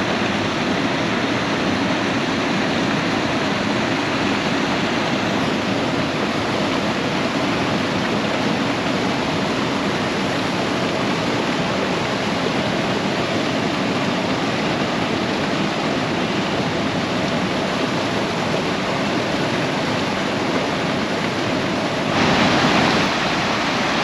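Waterfall pouring: a steady, even rush of falling water. About two seconds before the end it briefly grows louder.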